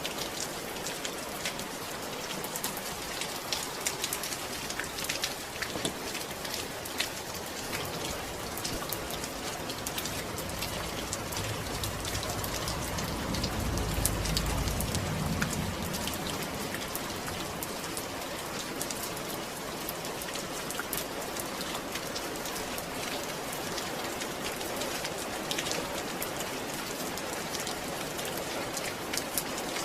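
Steady rain falling on a surface, a dense patter of individual drops. Around the middle a low rumble swells and then fades.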